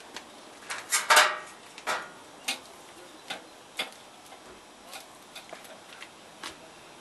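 Sharp, irregular metallic clicks and clatters at a barbecue grill, the loudest cluster about a second in, then lighter single clicks every half second or so.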